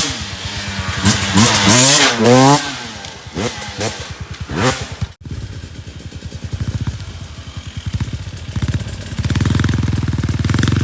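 Dirt bike engine revving in quick blips, its pitch rising and falling repeatedly over the first few seconds. After an abrupt cut it runs more steadily at a lower pitch and grows louder near the end.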